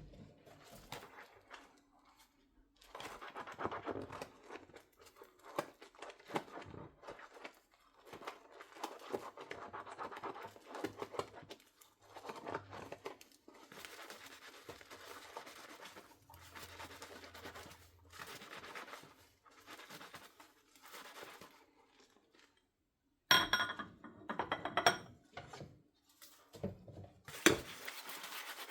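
Dishes being scrubbed by hand with a sponge in a sink: irregular scraping and rubbing strokes, then a pause and a few sharp clinks of dishes. Tap water starts running steadily near the end.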